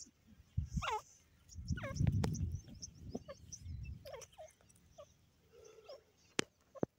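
Francolin (teetar) giving short, curving, whistled calls, the clearest about a second in and just before two seconds, with softer calls after. A low rumble around two seconds and a couple of sharp clicks near the end.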